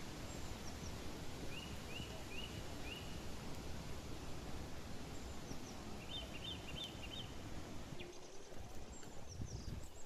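Forest birds calling over a steady low background noise. A run of four short rising notes comes about a second and a half in, and a quicker run of four notes about six seconds in, with a few faint higher notes.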